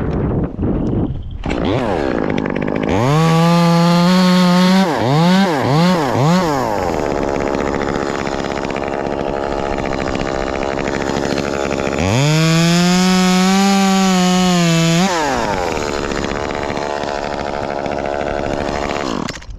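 Ported Echo 2511T top-handle two-stroke chainsaw revved to full throttle for a couple of seconds, blipped three times, then running lower for several seconds before being held at full throttle again for about three seconds and easing off near the end.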